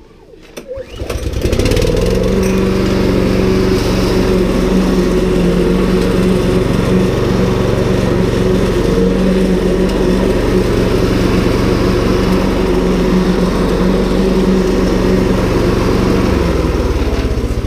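Ryobi 190cc lawn mower's Subaru four-stroke petrol engine catching about a second in after a pull-start and then running steadily.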